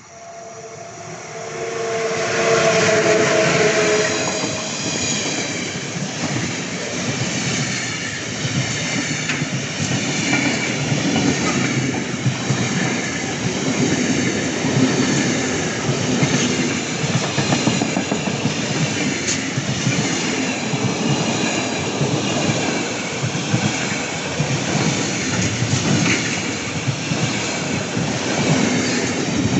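A train passing close by at speed: the noise builds quickly over the first two seconds, with a steady tone during the first few seconds, then a long run of wheels clattering on the rails as the carriages go by.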